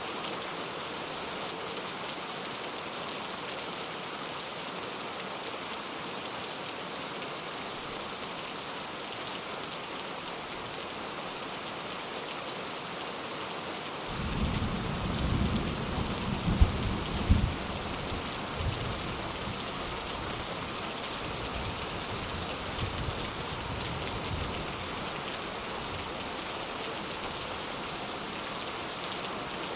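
Steady rain falling. About halfway through a roll of thunder comes in, peaks in two louder cracks, then rumbles away over several seconds.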